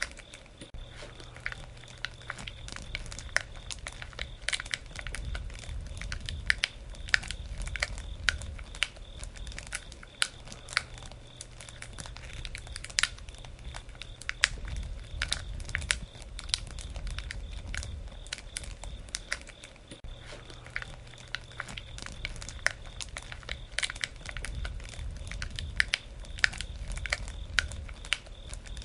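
Campfire burning, crackling steadily with frequent sharp pops and snaps over a low rumble of the flames.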